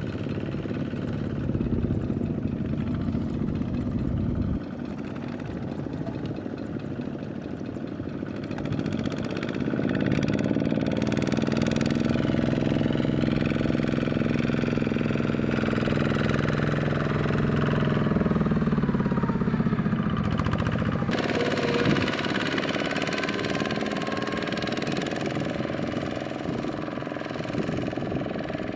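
Engine of a two-wheel power tiller running continuously while it works in mud, growing louder for a long stretch in the middle before easing back.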